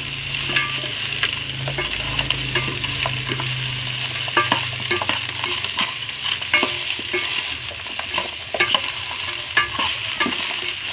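Boiled duck pieces sizzling as they fry in an aluminium pot, with a steady hiss. A metal spoon scrapes and clinks irregularly against the pot as the meat is stirred.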